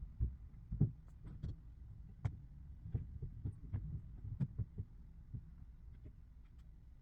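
Irregular knocks and thumps, about a dozen in the first five seconds, as a bulky piece of furniture is handled and moved, over a low rumble.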